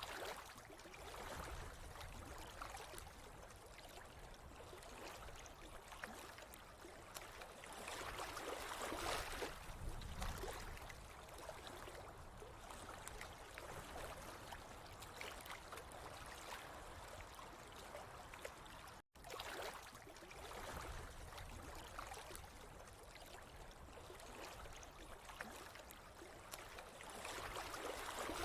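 Running water trickling and gurgling steadily, swelling a little now and then, with a brief sudden break about two-thirds of the way through.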